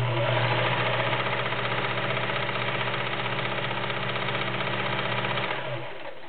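Kenmore model 1946 all-metal sewing machine, freshly serviced, running steadily at speed as it stitches fabric, with a smooth, even motor hum that stops near the end.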